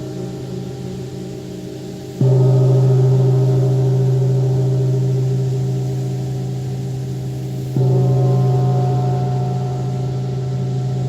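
Wind gong struck twice, about two seconds in and again some five seconds later, each stroke ringing on with a deep hum and many higher overtones that fade slowly. The ring of an earlier stroke is still dying away at the start.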